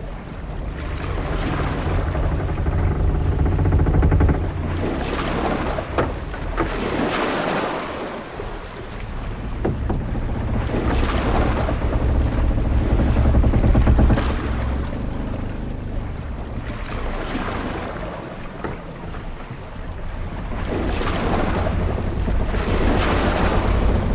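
Sea ambience aboard a sailing ship: waves washing against the hull and wind, with a deep rumble, swelling and ebbing every few seconds. A few short knocks sound around a quarter of the way in.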